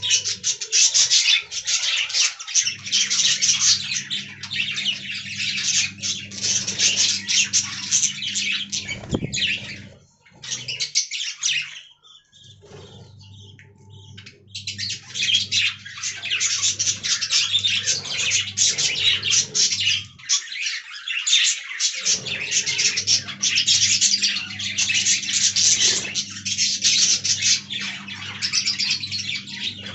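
Budgerigars chirping and warbling in a dense, continuous chatter, with a quieter lull near the middle. A low hum comes and goes underneath.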